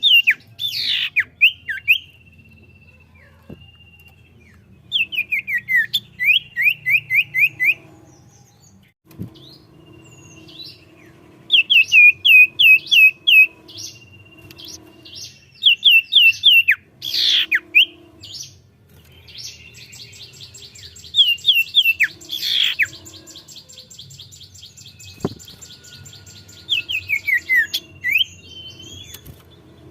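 Common iora (cipoh) singing in repeated phrases: runs of quick downward-sweeping notes and long thin whistles, with a fast high trill about twenty seconds in. A faint low hum runs underneath.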